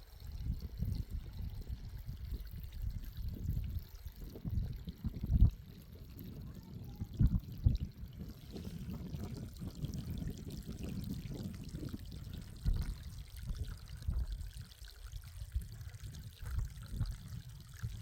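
Irrigation water pouring and trickling in an uneven, continuous flow, with a few brief louder splashes.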